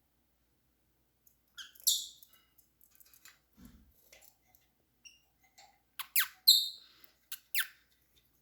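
Short, sharp, high-pitched chirps, several quick falling ones in the second half, made by a person squeaking air between the teeth to imitate a bird and call pet lovebirds.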